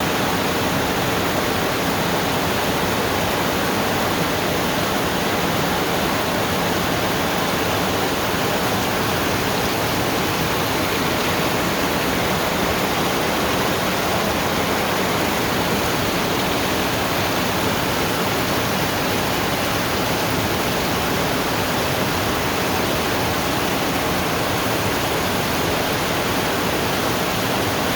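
Rain falling steadily: a dense, even hiss that doesn't change.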